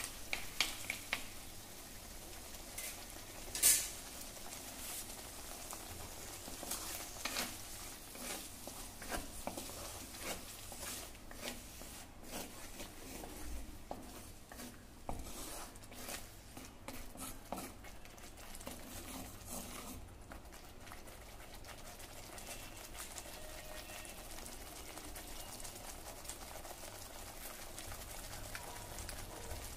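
Coriander paste frying in oil in a clay pot with a faint sizzle, stirred and scraped round the pot with a spoon and a wooden spatula; one sharp clink about four seconds in. The stirring strokes thin out in the last third, leaving mostly the sizzle.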